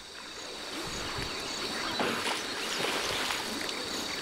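Water sloshing and splashing, with a steady high-pitched drone in the background.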